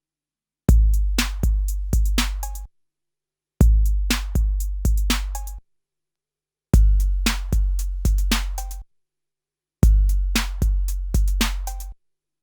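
A 12-bit SP1200 drum sampler playing a short drum phrase four times, with dead silence between. Each phrase is a deep, booming bass kick struck three times under sharp, crisp hits. The last two passes have a slightly different, brighter tone than the first two, as when the same sample is switched from one unit to the other.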